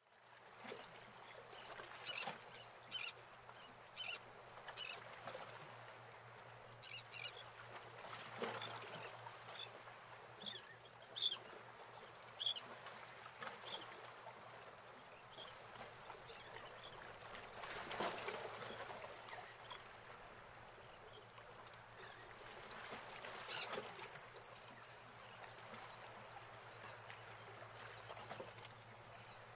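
Birds calling, with many short chirps scattered over a steady low hum; a louder cluster of calls comes about eleven seconds in and a quick run of high notes about twenty-four seconds in.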